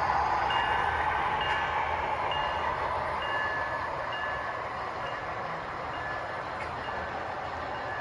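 Model trains running on a club layout: a steady rumble of wheels on track that slowly fades. Over it a small electronic chime repeats, alternating between two notes, a little over once a second.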